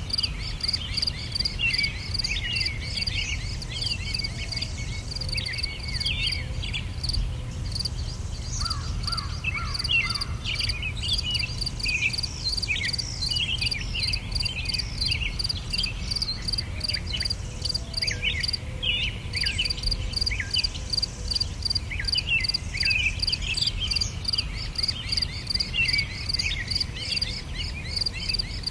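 Nature ambience: insects trill steadily in a high, pulsing chorus while many birds chirp in short, quick calls throughout, over a low rumble.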